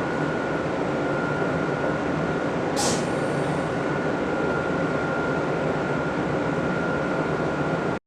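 Train running with a steady rumble and a steady high whine, and a short sharp hiss about three seconds in. The sound cuts off suddenly at the end.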